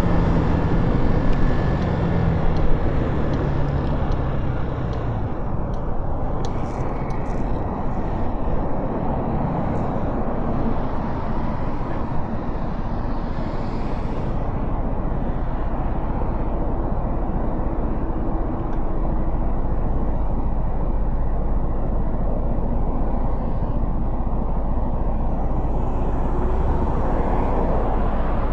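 Motorcycle riding through city traffic: the engine runs beneath a steady rush of wind and road noise. The engine pitch drops over the first few seconds as the bike slows, then the ride continues at an even pace.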